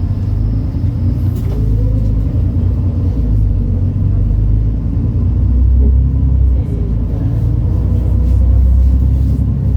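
MAN Lion's City NL293 city bus running on the move, a steady low rumble, with a faint rising whine about a second and a half in.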